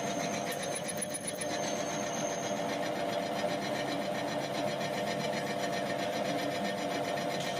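Electric motor of a drilling machine running steadily at an even pitch.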